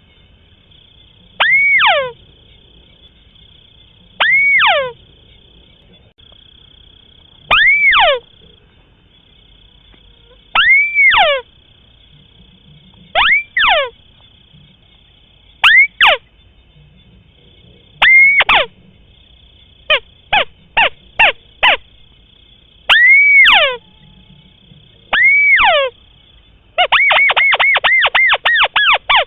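White-browed crake calling: a single note that arches up then down, repeated every two to three seconds, broken by a few short clipped notes about two-thirds through and a fast run of about a dozen notes near the end. A faint steady high whine sits underneath.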